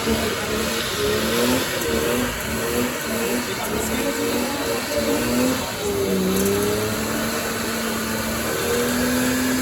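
Car engine revving in short repeated bursts, then held at a steady high pitch for several seconds.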